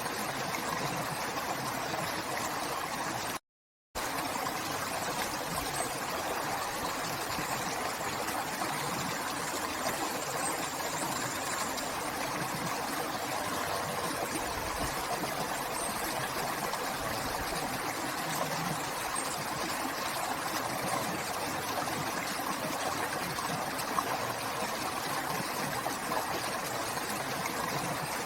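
River water flowing, a steady rushing sound with no let-up. It cuts out to silence for about half a second around three and a half seconds in.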